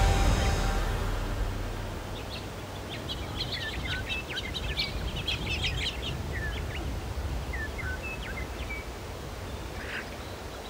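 Background music fading out in the first second, then small birds chirping and calling with quick, sliding notes over a steady low rumble.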